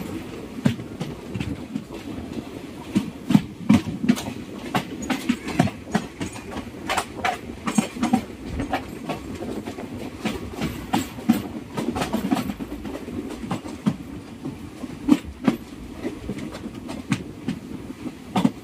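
Train running on the track: a steady low rumble with irregular sharp clicks and knocks of the wheels over the rails.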